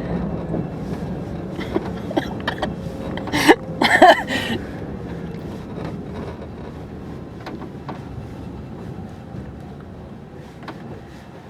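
Road and tyre noise inside the cab of a Rivian R1T electric pickup, with no engine sound, gradually getting quieter as the truck slows. A brief louder sound with wavering pitch cuts in about three and a half seconds in and lasts about a second.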